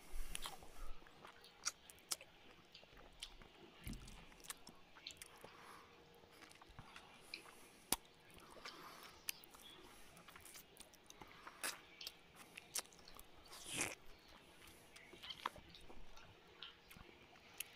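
A man chewing a mouthful of rice and fish curry eaten by hand, with soft mouth sounds and many scattered sharp little clicks. One louder, longer noise comes about fourteen seconds in.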